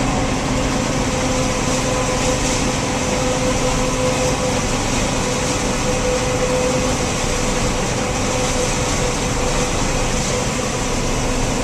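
Heavy John Deere harvest machinery running steadily: an even mechanical drone with a constant whine and no changes in pace.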